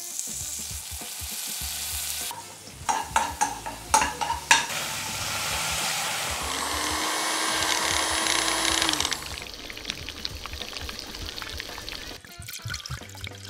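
Butter and sliced onions sizzling and frying in a nonstick pan, stirred now and then with a few sharp strokes, as the start of a cream onion sauce. The sizzle eases off over the last few seconds.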